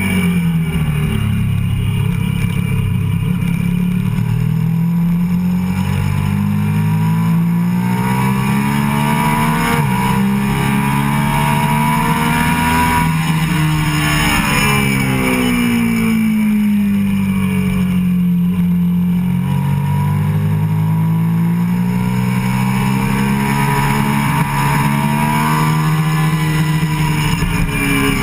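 Sport motorcycle engine heard from onboard at track speed, its revs climbing and falling slowly over several seconds at a time as the rider accelerates and slows through the corners.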